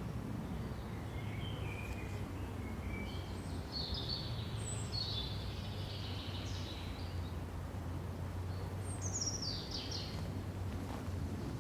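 Small songbirds chirping and warbling on and off over a steady low background rumble. About nine seconds in, one bird gives a quick run of notes falling from high to lower pitch.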